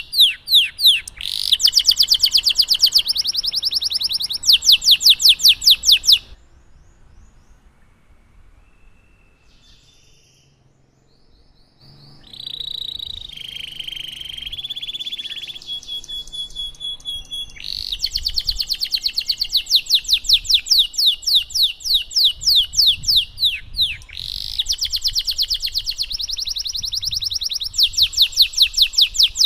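Domestic canary singing, mostly long, rapid rolling trills of fast repeated notes. It breaks off about six seconds in and gives only a few faint chirps. Softer warbling phrases follow near the middle, then the rolling trills resume for the last twelve seconds or so.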